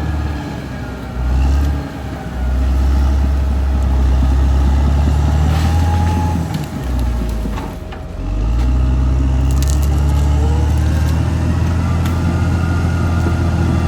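Caterpillar D6R XL bulldozer's diesel engine running hard, sagging and picking back up a few times as it works. Around six and ten seconds in come short cracks of breaking wood.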